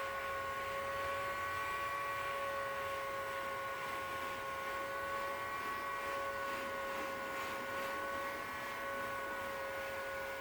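Heat gun running steadily: a constant motor whine with an even hiss of blown air, used to shrink wrinkles out of Oratex fabric covering.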